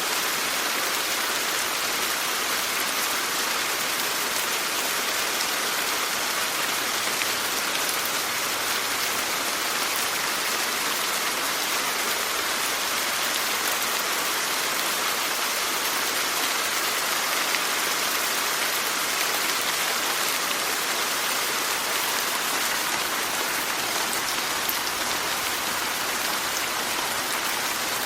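Steady rain falling, an even hiss of many drops with no lulls or gusts.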